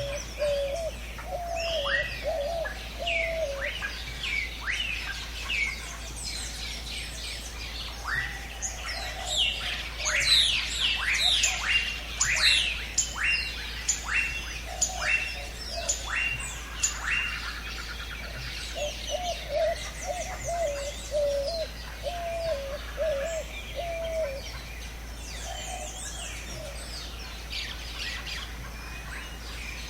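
Several birds singing and calling: rapid series of descending whistled notes, loudest and densest in the middle, with a lower warbling phrase near the start and again about two-thirds of the way through.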